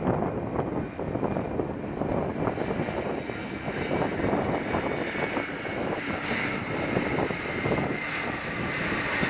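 Boeing 767 airliner's jet engines, with a thin high whine that grows in about halfway through, under heavy gusty wind buffeting on the microphone.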